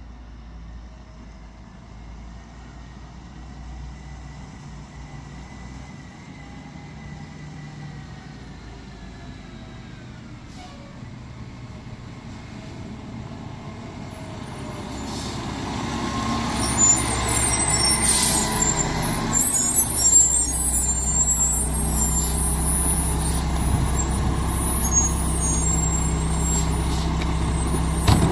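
Mack MR rear-loader garbage truck approaching, its diesel engine growing steadily louder over several seconds and then running on at a steady level. About two-thirds of the way in there is a sharp air-brake hiss, with high squealing after it.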